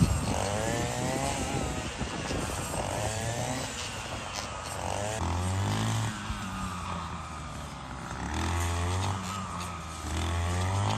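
A small petrol engine revving up and falling back repeatedly, about five times.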